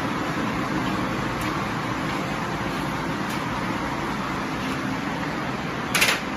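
Busy railway platform ambience: a steady din of station noise with a faint hum, and a brief loud hiss near the end.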